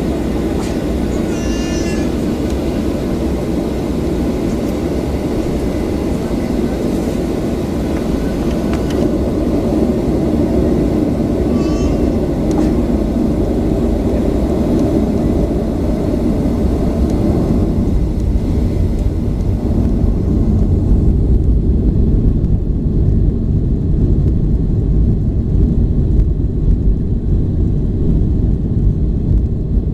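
Boeing 737-800's CFM56 jet engines heard from the cabin at high thrust during the takeoff run and climb-out, a loud steady rumble. About two-thirds of the way through, the higher hiss fades while the deep rumble grows a little louder.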